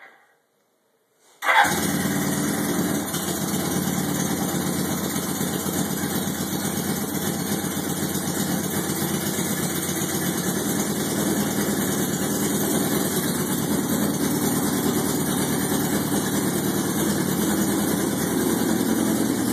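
Suzuki GS650 motorcycle's air-cooled inline-four engine on its first startup after a bobber build: after a brief silence it comes in suddenly about a second and a half in, then runs steadily.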